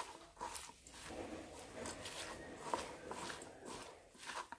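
A spoon stirring and scraping in a pan as fried soya chunks are mixed into a roasted masala, in irregular short strokes.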